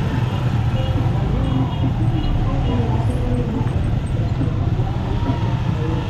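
Motorcycle tricycle's engine running steadily under way, with voices over it.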